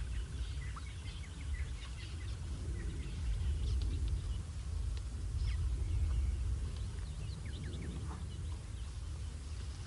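Wild birds giving short, scattered chirps and calls over a steady low rumble.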